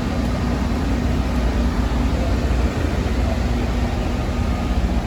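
Steady low mechanical drone with an even hiss from running machinery, holding constant without change.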